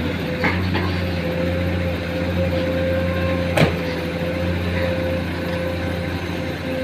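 A vehicle running steadily with a low hum and a steady mid-pitched tone, and a single sharp knock about three and a half seconds in.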